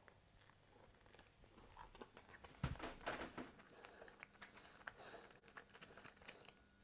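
Faint chewing of a bite of focaccia: a few scattered soft mouth clicks, mostly around the middle, in near silence.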